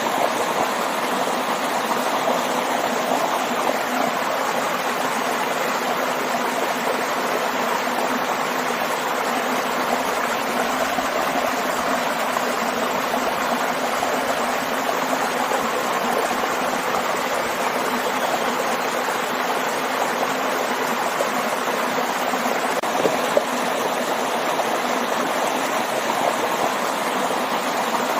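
Steady rushing of a waterfall and stream, falling and flowing water.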